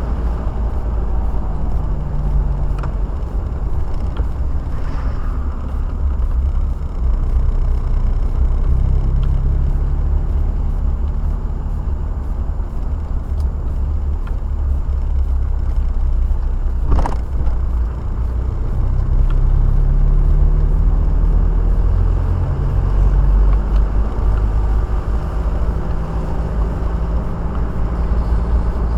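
Car on the move, heard from inside the cabin: a steady low rumble of engine and road noise, with the engine note rising and falling several times as it speeds up and slows. One sharp click about 17 seconds in.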